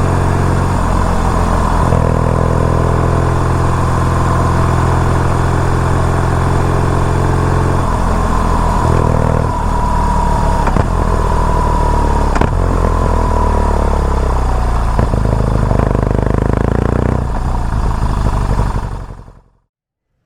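BMW R nineT Urban G/S's 1170 cc boxer twin running under way, a steady engine note that shifts in pitch about two and eight seconds in. A few sharp clicks come through the middle, and the sound fades out near the end.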